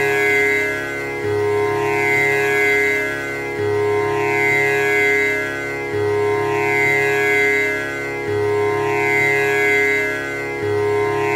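Tanpura drone, its strings plucked in a steady repeating cycle of about two and a half seconds, with a low string opening each cycle. Bright overtones sweep after every pluck over a continuous sustained drone.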